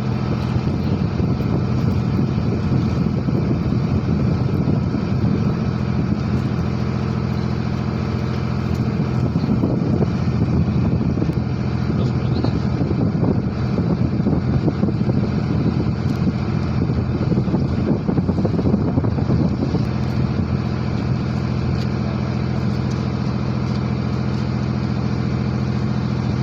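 A ship's diesel engine running steadily during berthing, a low hum of several fixed tones, with a rougher, noisier stretch through the middle.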